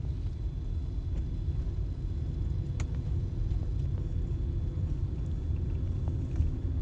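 Car driving along at a steady pace, a continuous low rumble of road and engine noise, with a single faint click about three seconds in.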